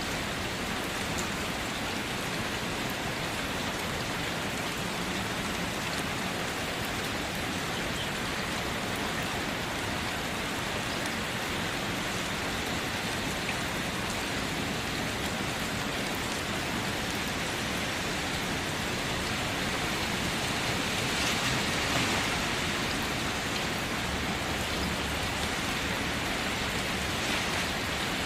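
Steady rain falling as an even hiss, swelling slightly about three quarters of the way through.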